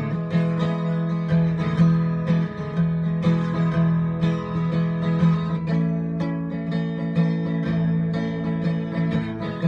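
Instrumental break in a blues song: a guitar plays quick picked notes over the band's steady backing, with no singing.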